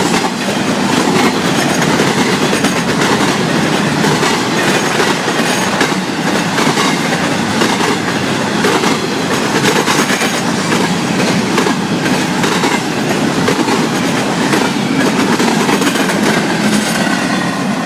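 Florida East Coast Railway freight train's cars rolling past at speed: a steady rumble and rattle, with the wheels clacking over the rail joints.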